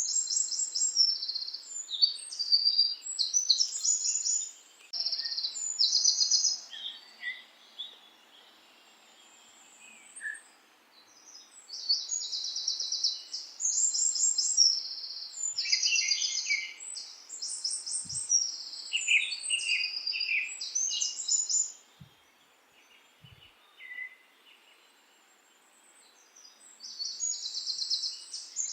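Birdsong: high-pitched, rapid trilled phrases repeated in bouts, with two longer pauses in the middle.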